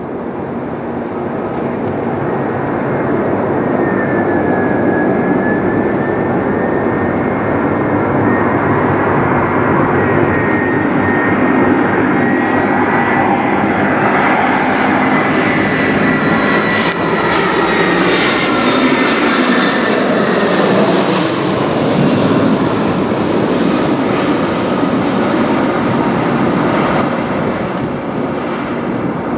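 Airbus A320-214 airliner's CFM56 jet engines passing low overhead on approach: a steady jet rush with a whine that builds to its brightest about twenty seconds in, then drops in pitch as the plane passes and moves away.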